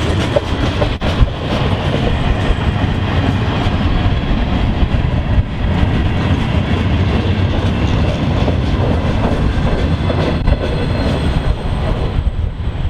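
A train passing close by, its wheels rumbling and clicking steadily over the rail joints.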